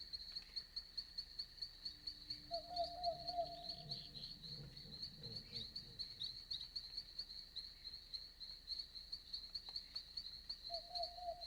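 Night insects chirping steadily in a fast, high pulsing rhythm, with a short wavering call from a night animal about two and a half seconds in and again near the end.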